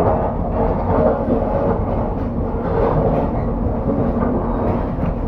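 Train in motion: steady rumble of the carriage running on the rails, with irregular knocks and rattles.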